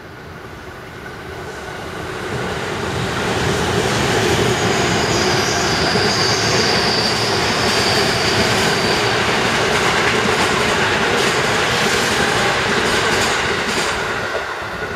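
JR Musashino Line electric trains running through a cutting: the rumble of wheels on rail builds over the first few seconds and stays loud. A high wheel squeal comes in around the middle, and rail-joint clicks follow in the later seconds before the sound begins to ease.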